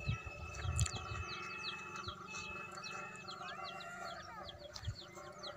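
Birds chirping: many short, quick calls, over a faint steady hum that fades out near the end.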